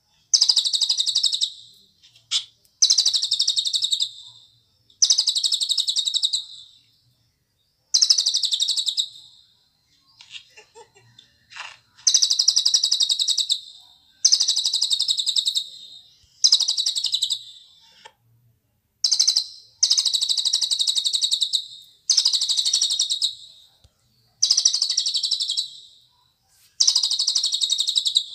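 Cililin bird singing: a high, rapid trilled phrase about a second long, repeated roughly every two seconds with short pauses, with a few brief softer call notes in between.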